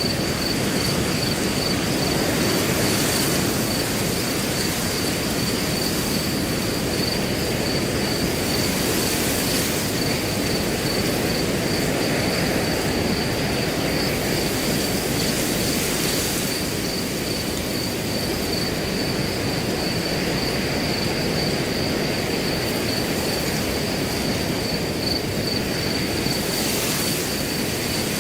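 Wind blowing through grass as a steady low rushing that swells a little now and then, with a cricket trilling on one unbroken high note over it.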